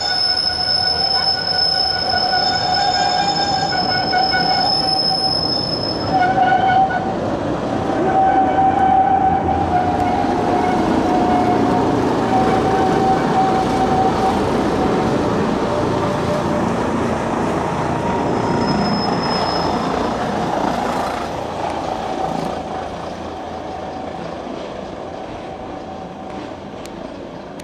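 Wengernalpbahn electric rack-railway freight train passing close by with a steady running rumble. Its wheels squeal on the curve in several steady high tones for about the first fifteen seconds. The sound then fades over the last few seconds as the train moves away.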